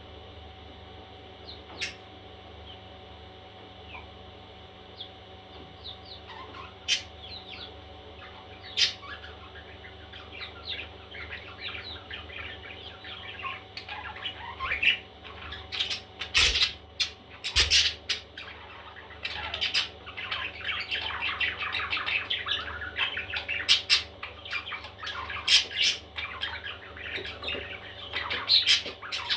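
Baby parrots chirping and squawking: scattered calls at first that build into a busy, continuous chatter about halfway through, broken by several sharp, loud squawks, over a steady low hum.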